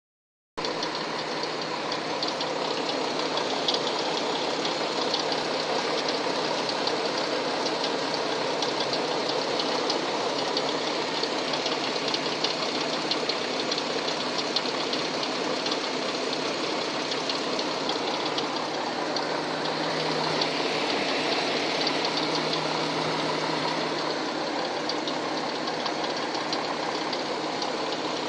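Hyundai Tucson engine running with a steady rapid knock, the engine knock the owner is recording.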